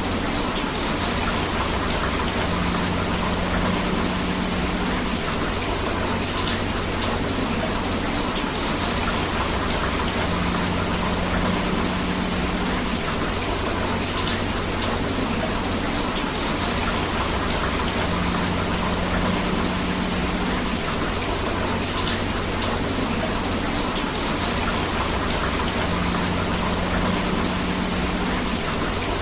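Steady rain mixed with flowing river water: a continuous, even wash of water noise.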